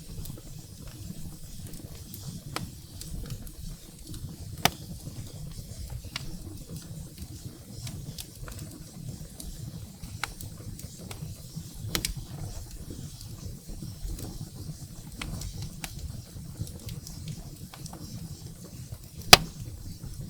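Wood fire burning in a fireplace: a steady low rumble of flames with scattered sharp crackles and pops from the firewood, the loudest pop near the end.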